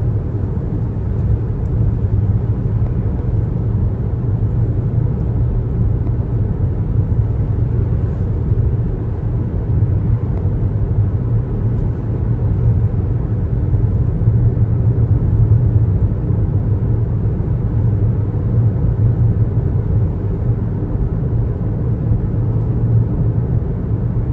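Steady low road noise of a car driving at highway speed: a constant rumble of tyres and engine.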